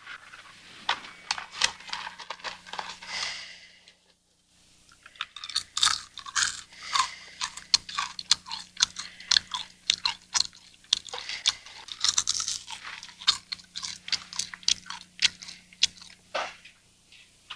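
Someone chewing something crunchy, in dense runs of short crackling crunches with a brief pause about four seconds in. A faint steady low hum runs underneath.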